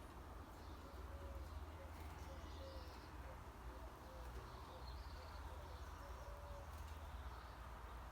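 Pigeon-family bird cooing faintly: a run of short, low notes for about six seconds. Faint high chirps from other birds and a steady low rumble sit underneath.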